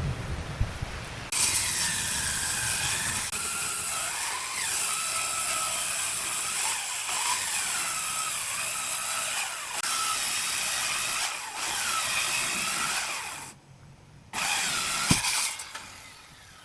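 Electric power tool cutting wood: a hissing cut with a high motor whine whose pitch dips and recovers again and again as it takes load. It breaks off sharply near the end, comes back briefly, then dies down.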